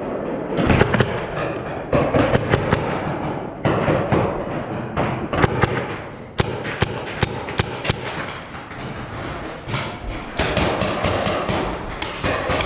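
Paintball markers firing in quick strings of sharp shots, with thuds, in several clusters.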